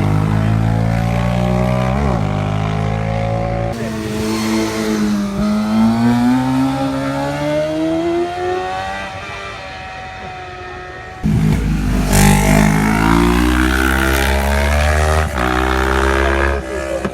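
Racing motorcycles accelerating hard through the gears, the engine pitch rising and dropping back at each shift. The sound changes abruptly about four seconds in and again about two-thirds of the way through, as a new engine comes in loud.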